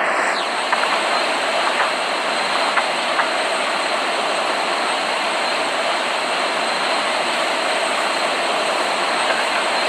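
Steady noise of a Boeing 787 jet airliner, with a few faint ticks.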